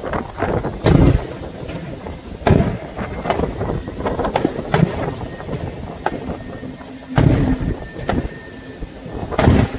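Aerial fireworks shells by Pirotecnia Morsani bursting overhead: a series of booms with crackling and rumbling between them. The loudest bursts come about a second in, around seven seconds, and near the end.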